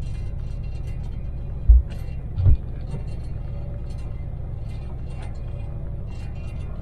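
Inside a Daewoo Damas microvan at expressway speed: steady low engine and road rumble with light rattling ticks. Two brief low thumps come a little under two seconds in, under a second apart.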